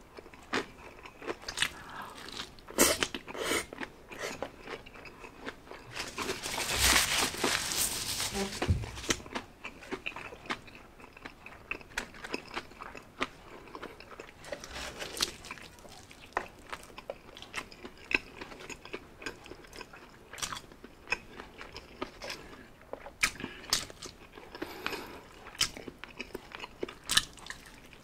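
Biting and chewing Jollibee Chickenjoy fried chicken, with many short, sharp mouth clicks and smacks. A louder, denser stretch of eating noise lasts about two seconds, around seven seconds in.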